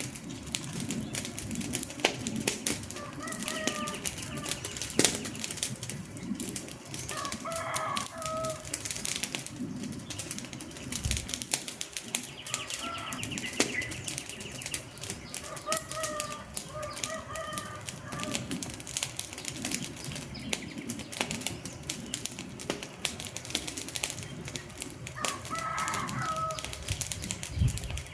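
Wood fire crackling, with many irregular sharp pops and snaps. A few short bird calls sound faintly in the background, about five times.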